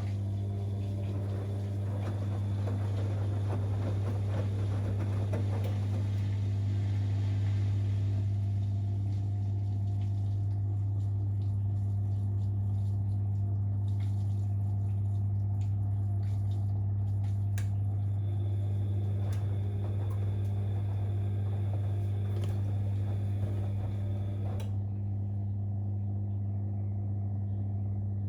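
Siemens Extraklasse XLS 140 A front-loading washing machine running in its boil-wash cycle: a steady motor hum with water swishing in the tumbling drum. The swishing fades out about 25 seconds in while the hum carries on.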